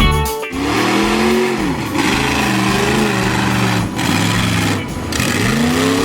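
Vehicle engine revving hard at a mud bog, its pitch rising and falling about three times, over a steady rushing noise.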